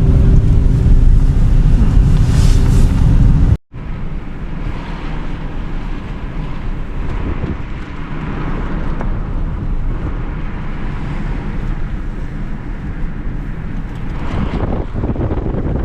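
Wind buffeting the microphone with a heavy low rumble. It breaks off abruptly about three and a half seconds in and gives way to a quieter, steady rushing wind noise.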